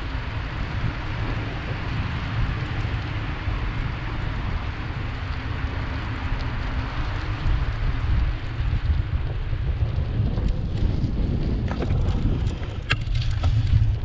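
Wind buffeting the microphone of a camera riding on a bicycle: a steady low rumble under a constant hiss. A few sharp clicks come in near the end.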